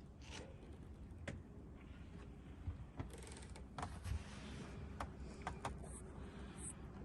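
Scattered small clicks, knocks and brief rubbing or scraping sounds of hand work, over a low steady background.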